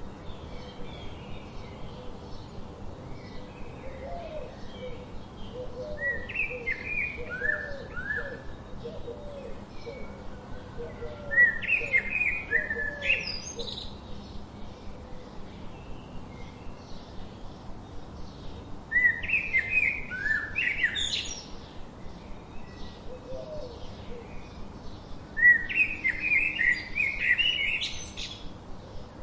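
A songbird singing: four short phrases of quick chirping notes, a few seconds apart, each ending in rising, whistled sweeps. Fainter, lower calls come from another bird in the first third.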